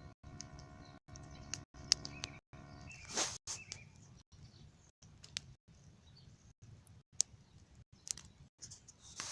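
Small campfire burning down, with irregular sharp crackles and pops. Birds chirp now and then.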